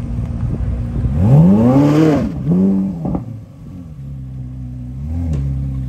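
2023 Chevrolet Corvette Z06's 5.5-litre flat-plane-crank V8 idling, then revved. About a second in comes one long rev that climbs and falls, a quick second blip follows, and it settles back to idle with a small blip near the end.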